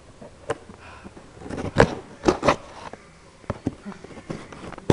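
A package being cut and worked open with a knife: irregular scrapes and sharp knocks, loudest in a cluster about two seconds in.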